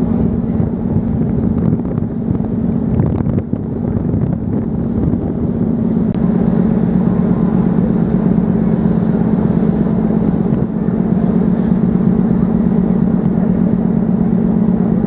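Steady low drone of a cross-channel ferry under way, its engines and machinery running, growing a little louder about six seconds in.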